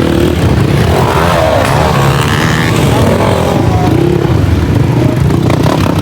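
Dirt bike engines running loudly, with a rev that rises and falls about a second in.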